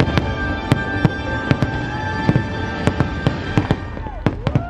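Aerial fireworks bursting in quick, irregular bangs, several a second, with music of held notes playing underneath.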